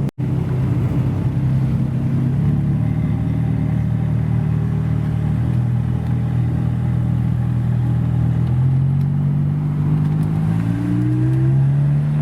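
Supercar engine running at low revs with a deep, steady note, its pitch rising gradually near the end as it picks up speed.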